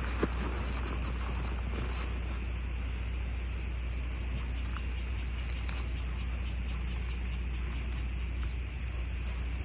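Insects in autumn woodland making one steady, unbroken high trill, with a few faint clicks and one sharper click just after the start.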